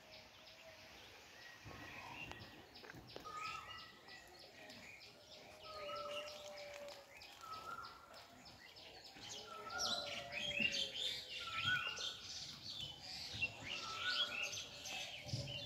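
Birds calling outdoors: short, level whistled notes that repeat every second or so, over many quick chirps that grow busier and louder in the second half.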